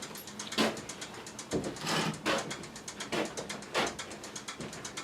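Objects being handled and moved around: about five sharp knocks and clatters over a light rattling.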